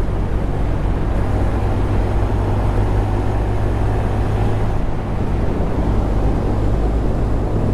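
Honda Grom 125's small single-cylinder four-stroke engine running steadily while riding, with wind rushing over the microphone.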